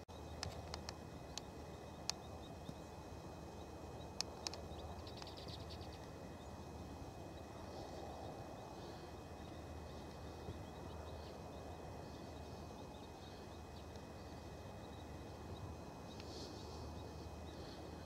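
Faint outdoor background with a low steady hum and faint, high, thin calls of small birds here and there, clearest near the end. A few sharp clicks fall in the first five seconds, followed by a brief run of fine ticking.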